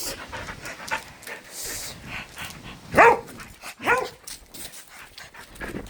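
A dog barks twice, about a second apart, the first louder.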